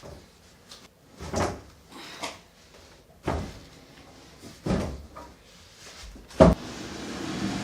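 Knocks and bumps of furniture being moved around a room, five separate thumps with the sharpest and loudest near the end. A steady rumbling noise starts just after it and grows slightly louder.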